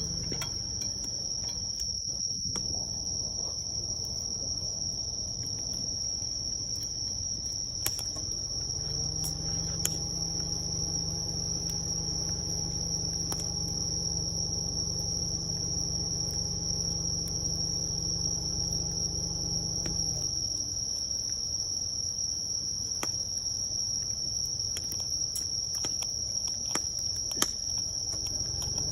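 Crickets chirring in a steady high-pitched chorus, with a few sharp pops from a crackling wood fire. A low pitched hum comes in about a third of the way through and fades out after about eleven seconds.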